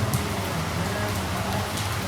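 Heavy rain pouring down: a steady hiss with a few louder drop hits, and a low hum underneath.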